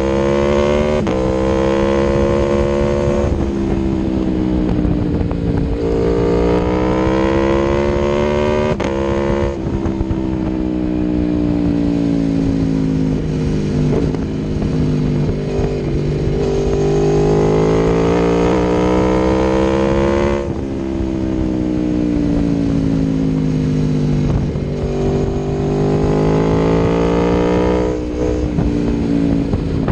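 Aprilia Tuono V4 1100's V4 engine through an Akrapovic exhaust, running under way. Its pitch climbs and falls as the bike accelerates and eases off, with sudden breaks at gear changes, about 3, 9 and 20 seconds in and near the end.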